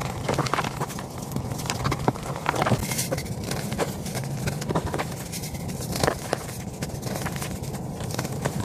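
Dyed gym chalk being crushed: a steady run of irregular crunches and sharp crackles as the chalky blocks break and crumble.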